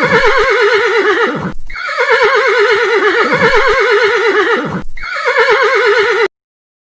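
Horse whinnying: long calls with a shaky, wavering pitch that falls away, repeated back to back about every three seconds, the last one cut off abruptly near the end.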